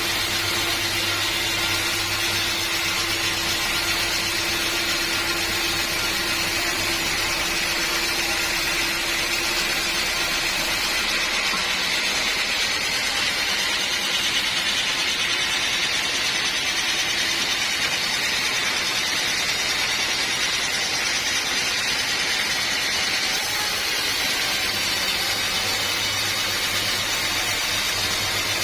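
Sawmill machinery running steadily with a dense, continuous mechanical whine and hiss. A low hum drops away about ten seconds in and comes back near the end.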